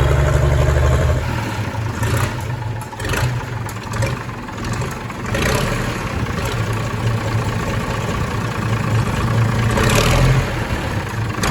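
Nuffield 690 tractor's six-cylinder diesel engine running, louder for about the first second, then easing to a lower, steady run.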